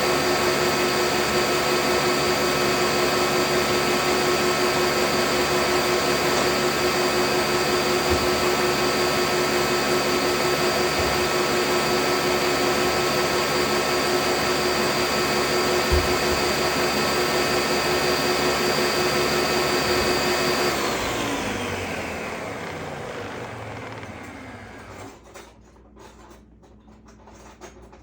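Electric blender running steadily at high speed, blending an oil-and-vinegar salad dressing. Near the end it is switched off and the motor winds down over a few seconds, its whine falling in pitch.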